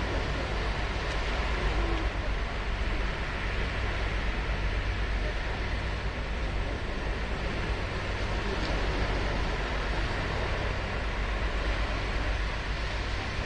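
Ocean surf washing onto a sandy beach: a steady rush of noise with a deep low rumble underneath.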